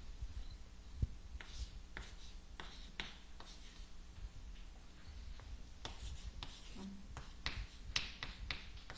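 Hand writing and drawing: an irregular run of short scratchy strokes and light taps, over a faint steady low hum.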